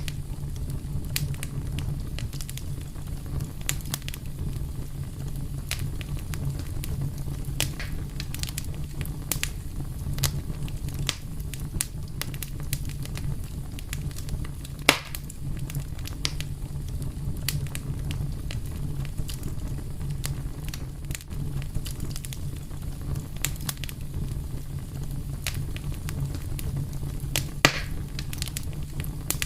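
Wood fire burning with a steady low rumble and frequent sharp crackles and pops, two louder pops about halfway and near the end.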